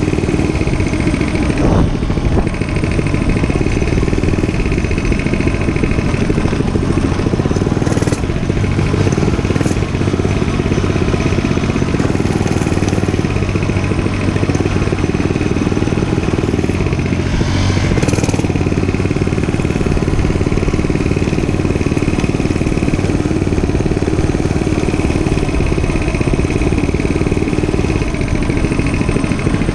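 Dirt bike engine running at a fairly steady speed while riding, with a few brief clicks or knocks.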